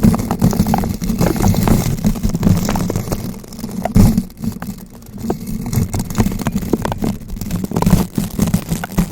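Bristle brush rotated and rubbed against a bare microphone, giving dense scratching and crackling over a heavy low rumble. About four seconds in there is a sharp knock, and for the next couple of seconds the scratching thins out before it builds again.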